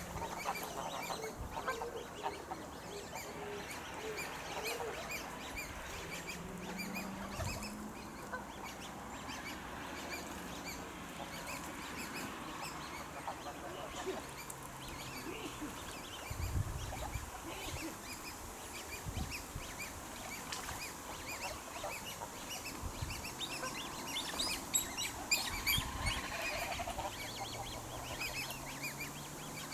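Birds calling at intervals, the calls busiest a little before the end, with a few low thumps in the middle and near the end.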